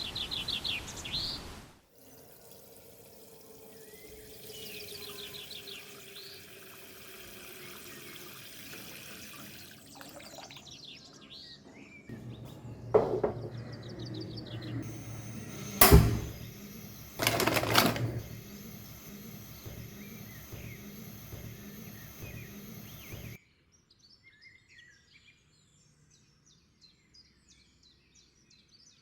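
Birds chirping, with three loud sharp knocks or clatters in the middle, over a low steady hum.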